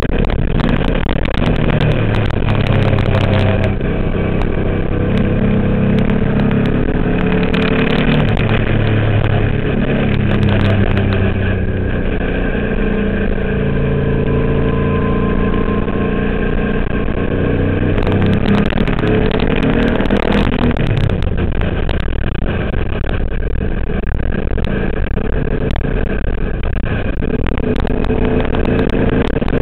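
Twin-turbo Subaru engine in a VW race car, run hard on track. Its pitch repeatedly climbs and then drops at each gear change.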